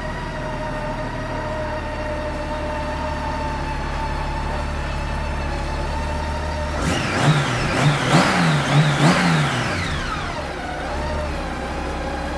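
2007 Honda Goldwing GL1800's flat-six engine idling smoothly, then revved in a quick series of throttle blips about seven seconds in, each rising and falling in pitch, before settling back to idle.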